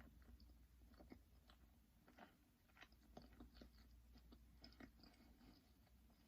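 Quiet close-up chewing of chicken nuggets: irregular small clicks and soft crunches of mouth sounds.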